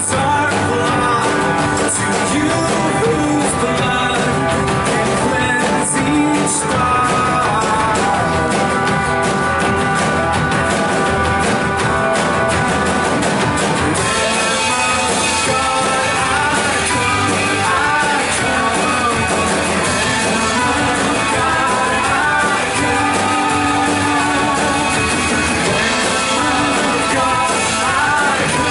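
Live worship band playing a rock-style song with congregational singing; the voices grow stronger about halfway through.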